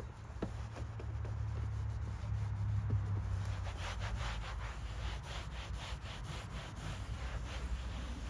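Microfiber cloth rubbing back and forth over a car's interior surface, in quick even strokes of about three a second from a few seconds in, with a few light clicks before. A low steady rumble of road traffic lies underneath.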